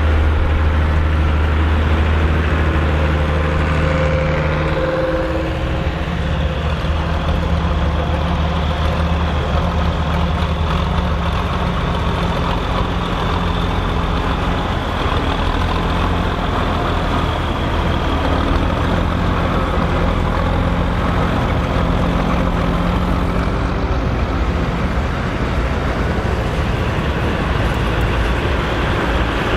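Massey Ferguson 2680 tractor's diesel engine running steadily under load while pulling a cultivator through the soil, its engine note shifting slightly about five seconds in.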